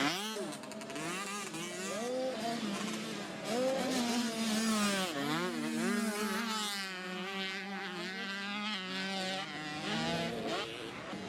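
Several motocross dirt bike engines revving up and down as they race, their pitch rising and falling over and over as riders shift and work the throttle. The engines get louder about three and a half seconds in.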